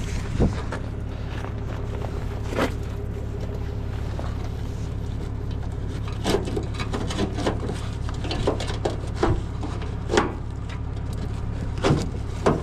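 Tow truck engine running steadily at low speed while maneuvering, with scattered short knocks and clicks over it.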